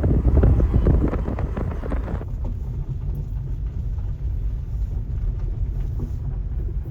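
Steady low rumble of a car on the move. The first two seconds are louder and noisier, then the sound cuts sharply to a quieter, steady rumble.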